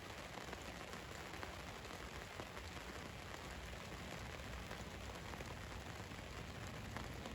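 Steady rain falling on a van's roof, a continuous patter with many small drop ticks.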